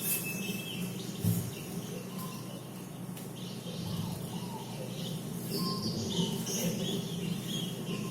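Birds chirping: a run of short, high chirps that grows busier in the second half, over a low steady hum.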